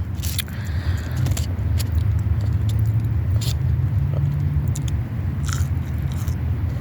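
Close-up eating sounds: chewing and biting, with scattered short crunchy clicks, over a steady low rumble.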